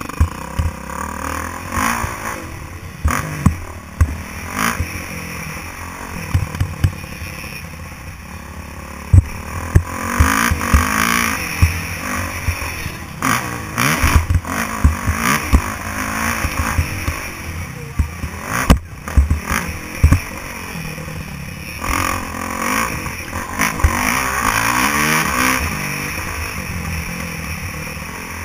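Motocross bike engine revving up and falling back again and again, with frequent sharp knocks and clatter.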